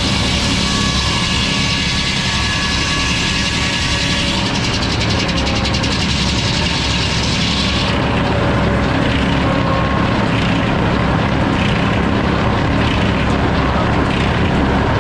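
A sawmill running, with its drive drone and the saw cutting through a log. About halfway through, the higher hiss of the cut drops away sharply while the low running sound carries on.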